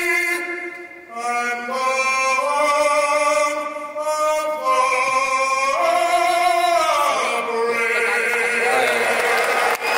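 A male solo singer holding the long closing notes of the national anthem, sliding between sustained pitches; about seven seconds in the crowd breaks into cheering over the final note.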